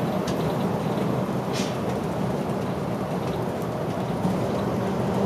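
Route bus running, heard from inside the cabin: a steady engine rumble and road noise, with a few faint brief rattles.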